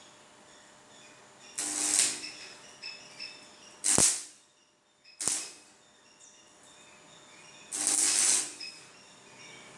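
Electric arc welding in short bursts of crackling, about a second each, with sharp knocks in between.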